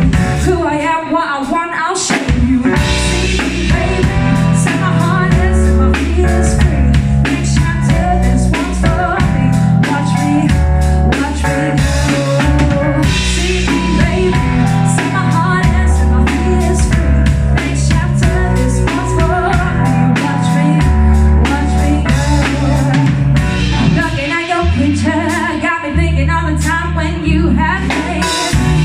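Live band playing a pop song loudly: drum kit and bass driving a steady beat under guitar.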